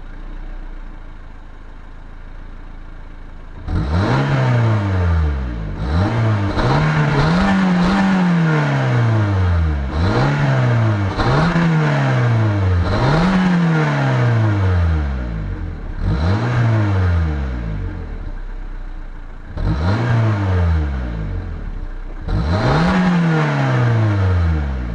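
Suzuki Wagon R+ 1.3-litre four-cylinder petrol engine and exhaust being revved while standing: repeated quick blips that rise sharply and drop back to a steady idle, about nine times, one of them held a little longer around the middle.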